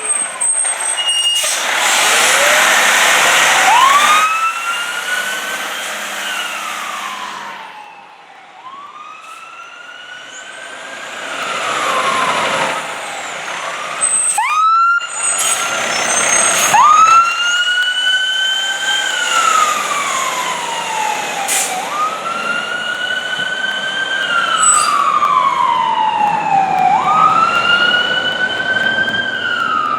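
Fire truck sirens wailing as the apparatus respond, each wail rising quickly and falling slowly every few seconds. A loud rush of truck noise comes a couple of seconds in.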